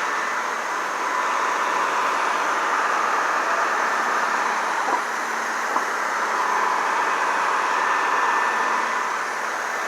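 Steady street vehicle noise: heavy trucks running, an even hiss with a faint steady whine, and two light clicks about five and six seconds in.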